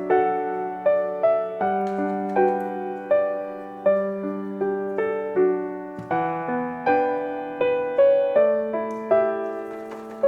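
Background music: a gentle piano tune of single notes and chords, each note struck and fading.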